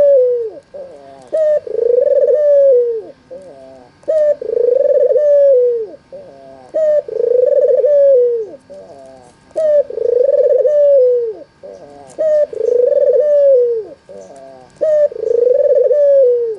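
White, red-eyed (albino) Barbary dove cooing in a repeating phrase. Each phrase has a few short notes and then a long rolling coo, and it comes back about every two and a half to three seconds.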